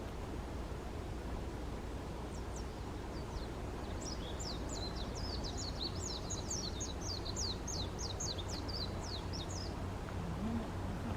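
Steady low rumble with a faint hum underneath, over which a small bird gives a rapid run of high chirps, about four or five a second, starting about four seconds in and stopping near the end.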